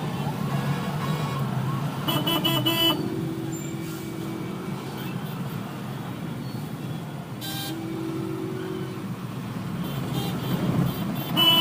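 Road traffic running steadily, with short car-horn toots about two seconds in and again near the end, and held horn-like tones in between.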